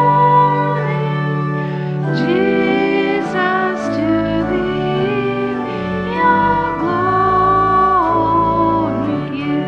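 Congregation singing a Christmas hymn with instrumental accompaniment, the voices holding long notes over sustained chords.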